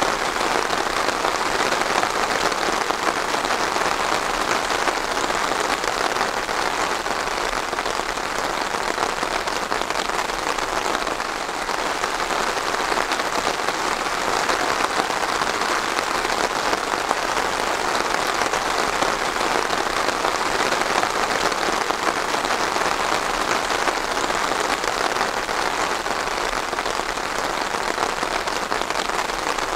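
Steady rain falling, with countless small drop hits blending into an even hiss.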